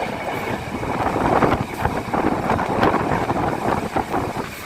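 Running noise of the moving Yal Devi train: a steady rushing clatter of wheels and carriage rattling along the rails, with many small irregular knocks.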